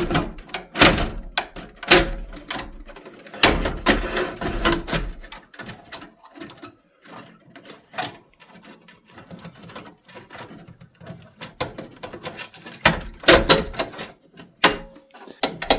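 Sheet-metal burner assembly of a Rinnai RE180 tankless water heater being slid back into its housing by hand, with a screw held on a screwdriver: irregular metal clanks, scrapes and clicks. They come thickest in the first five seconds and again about thirteen seconds in, with lighter rattles between.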